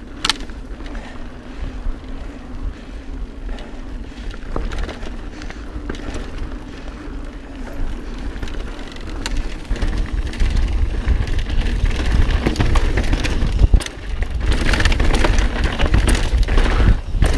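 Mountain bike riding fast down rough dirt singletrack: tyres on dirt and the bike rattling, with scattered sharp clicks and knocks. Wind rumble on the mic builds from about halfway as the speed rises.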